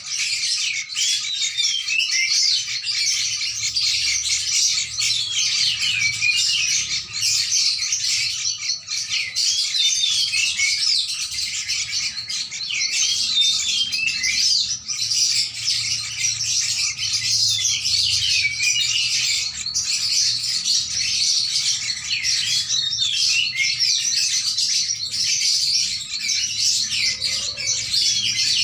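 Bulbuls calling: continuous dense high chirping, with short warbled calls every second or two, as a sooty-headed bulbul feeds a yellow-vented bulbul chick.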